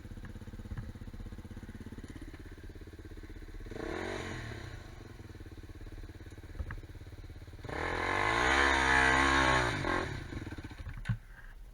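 Quad bike engine running at low revs, revved briefly about four seconds in, then revved harder for about two seconds near the end before dropping back, with a few knocks as it settles.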